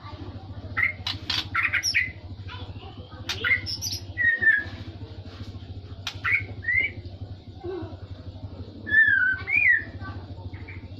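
A murai (Copsychus songbird) singing in short separate phrases of chirps and slurred, falling whistled notes, in the style of a trucuk bulbul's call. A steady low hum runs underneath.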